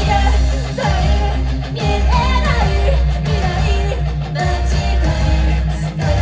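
Live band music: a voice singing a bending melody over guitar and a heavy, steady low bass.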